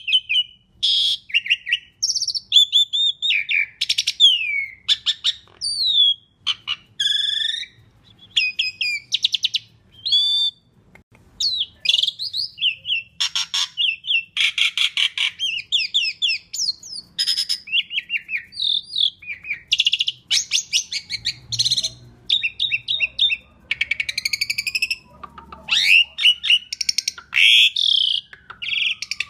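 Asian pied starling singing a long, varied song: whistled notes, fast chattering rattles and clicks, one short phrase after another with brief gaps.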